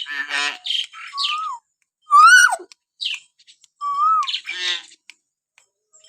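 Hill myna calling: a string of separate whistles and harsh squawks, with clear whistles that rise and fall in pitch, the loudest about two seconds in, and rasping squawks at the start and near the end.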